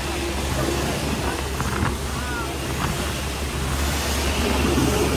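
Motorboat engine running steadily with a constant low rumble, with faint voices over it.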